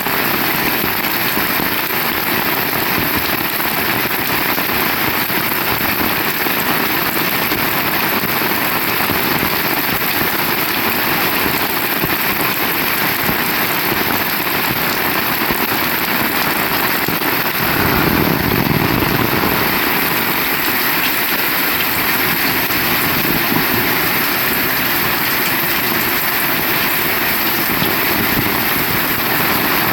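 Heavy rain falling steadily. About two-thirds of the way through, a brief low rumble swells for a couple of seconds and fades.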